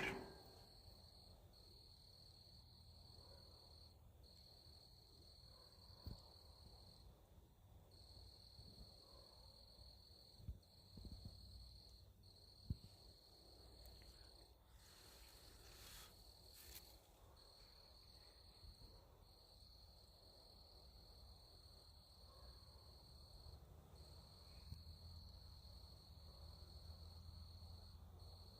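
Faint, steady high-pitched insect trilling, running in stretches of several seconds with short breaks, with a few soft knocks in between.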